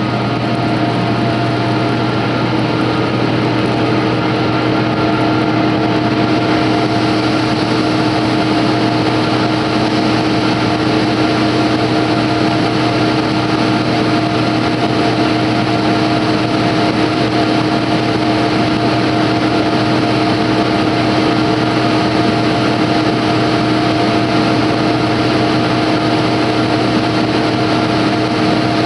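An engine running steadily at constant speed, close by, with a steady hum that does not change.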